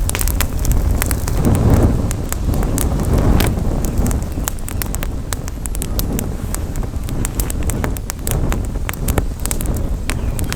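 Campfire crackling, with many sharp irregular pops and snaps, over a low rumble of wind on the microphone.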